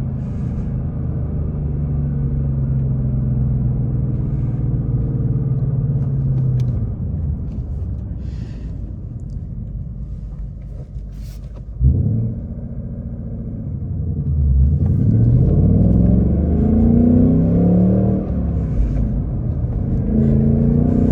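2024 Ford Mustang GT's 5.0-litre Coyote V8 through its active exhaust, in sport mode, on the move. The engine runs steadily at first, then eases off. About twelve seconds in there is a sudden thump. After that the revs rise and fall several times as the car accelerates through the gears.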